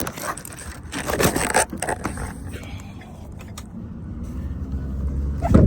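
Clicks and rustling handling noises inside a pickup truck cab, then the truck's engine rumble building toward the end.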